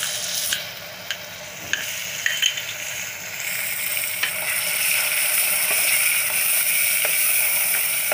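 Yogurt and spices sizzling in hot oil in an aluminium pot, stirred with a wooden spoon, which knocks against the pot a few times in the first three seconds. The sizzle grows louder from about four seconds in as the yogurt is worked into the fried onions.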